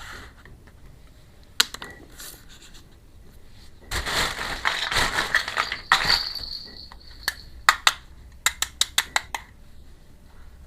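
Miniature plastic toy kitchen pieces and their packaging being handled: a single click, then about two seconds of loud rustling in the middle, then a quick run of about ten light clicks and taps near the end.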